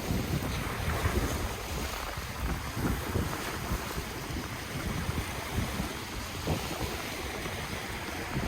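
Ocean waves washing on the shore, a steady surf hiss that swells about a second in, with wind gusting on the microphone as a low rumble.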